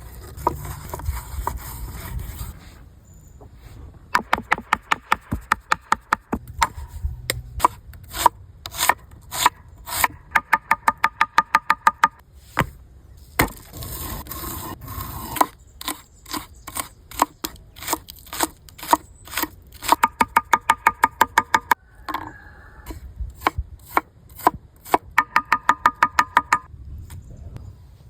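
Knife chopping on a wooden board in fast, even runs of strokes with short pauses between them, some strokes ringing from the blade, as when meat is minced by hand for kebab.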